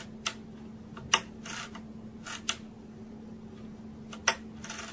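Exoskeleton ankle clutch's pawl snapping into and out of its ratchet: four sharp clicks spaced irregularly, with short rasping sounds between them as the clutch cycles. A low steady hum sits underneath.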